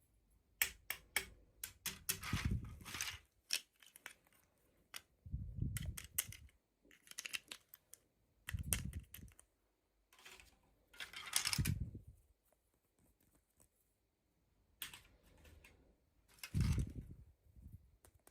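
Hands unboxing and handling toys and their packaging: a quick run of sharp clicks about a second in, then repeated bursts of rustling, each with a soft thump as something is set down or pressed.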